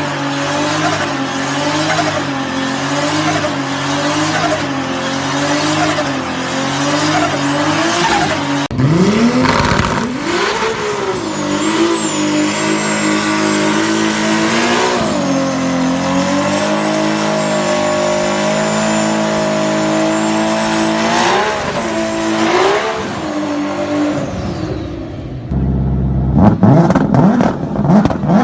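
Turbocharged car engine driven hard, its pitch rising and falling with throttle and gear changes through several cuts. A thin high whistle rides over the steady high-rpm running in the middle stretch. Fast revving sweeps come in near the end.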